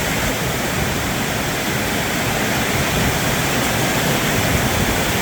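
Heavy storm rain pouring down onto a metal roof in a loud, steady hiss.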